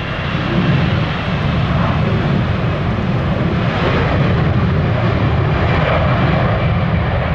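Airliner jet engines running loud and close, the roar swelling about half a second in and holding steady, with a low buffeting rumble.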